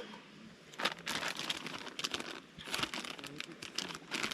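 Crinkling and rustling of something being handled, in irregular clusters of crackles starting about a second in.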